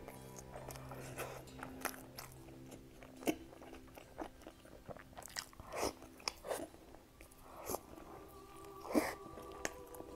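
A person biting into and chewing a pastry, close to the microphone: a string of short mouth clicks and chewing, the loudest about three, six and nine seconds in.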